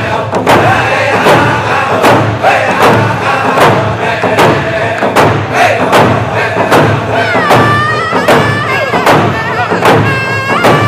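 Round dance song: a drum struck in a steady beat a little faster than once a second, under a group of voices singing. A high voice glides down about seven seconds in, and a high wavering voice rises near the end.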